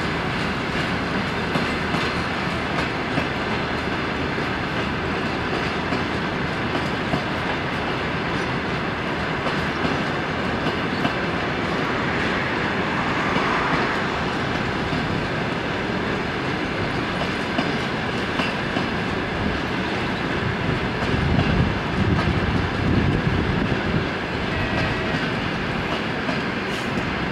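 Train of passenger coaches rolling past, wheels clacking over rail joints over a steady rumble. The low rumble swells for a few seconds near the end.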